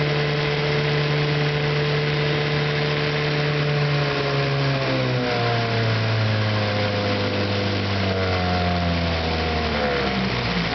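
Evinrude Sportwin 9.5 hp two-cylinder two-stroke outboard running steadily under load. About halfway through its pitch starts falling and keeps dropping as the motor slows.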